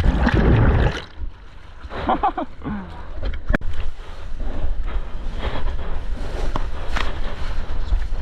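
Seawater splashing and rushing around a surfer and board, heard close up through a waterproof action camera, with a heavy surge in the first second and choppy splashes later on. A short voice-like call about two seconds in.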